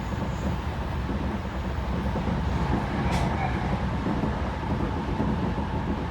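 Interior running noise of a Tokyo Metro 10000 series electric train under way: a steady low rumble of wheels on rail, with a single sharp click about three seconds in.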